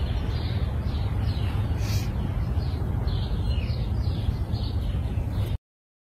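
Small birds chirping again and again in short, falling notes over a steady low rumble of outdoor background noise. It cuts off suddenly near the end.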